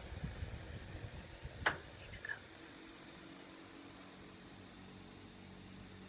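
Night insects, crickets, keeping up a steady high-pitched trill over a low steady hum. A few soft knocks in the first second and one sharp click a little before the two-second mark.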